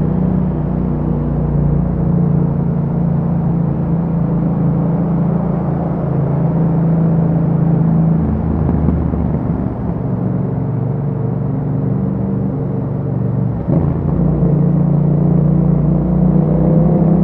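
2021 Yamaha MT-07 parallel-twin engine running through an Akrapovic exhaust while riding at a steady pace. The engine note shifts about halfway through. About three-quarters of the way through there is a brief click and dip, then the steady note comes back.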